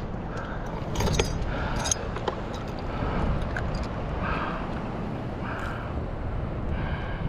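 Wind buffeting the microphone over water noise on a kayak, with a few sharp clicks and rattles about a second in and again near two seconds.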